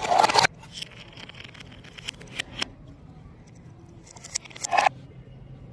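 Two short bursts of scraping, about half a second each, one at the start and one about four seconds in, with scattered clicks between them over a faint low hum.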